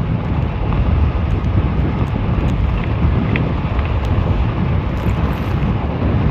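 Steady wind rushing over the microphone on a fat-tire e-bike riding at about 22 mph.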